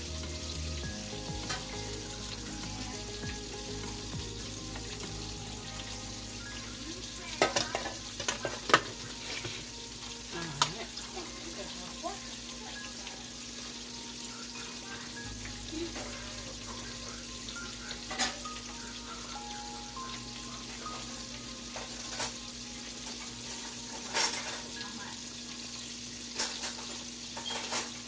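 Chicken frying in hot oil with a steady sizzle, and a scattering of sharp clicks and taps over it.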